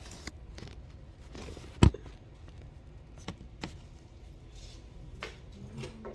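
Screwdriver prying a plastic wall thermostat off its wall plate: scattered clicks and scrapes, with one sharp knock just under two seconds in and a few more clicks after.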